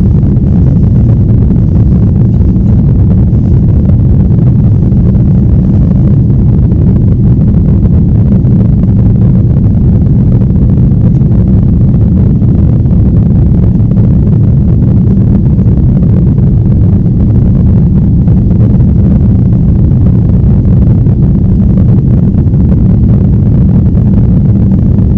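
Steady, loud, low roar of an airliner heard from inside the cabin, unchanging throughout.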